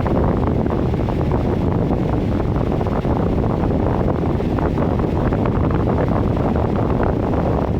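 Miller E3 electric furnace running, its blower moving air with a steady rushing noise.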